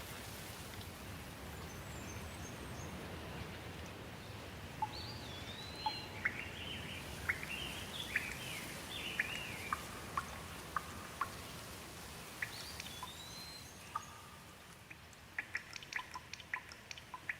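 Steady rain with a bird calling in repeated curving, whistled chirps through the middle. Near the end the rain thins and separate drips tick.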